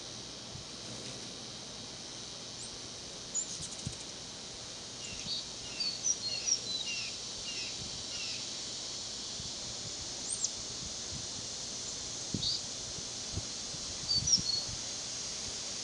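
Short high bird chirps: a quick series of about a dozen between roughly four and eight seconds in, then a few single chirps later, over a steady high background hiss.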